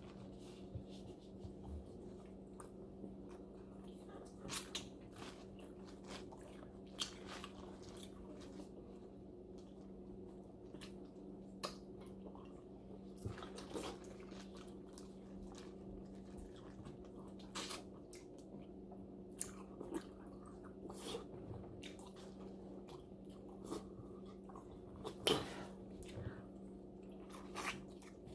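Mukbang eating sounds from a seafood boil: quiet chewing and biting, with scattered sharp clicks and cracks, the loudest one about 25 seconds in. A steady low hum runs underneath.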